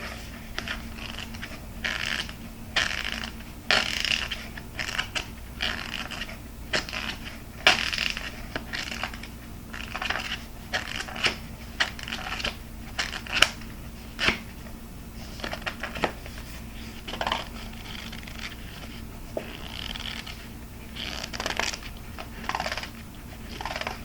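Fingernails tapping and scratching on hard objects in an uneven run of sharp taps and short scrapes, several a second.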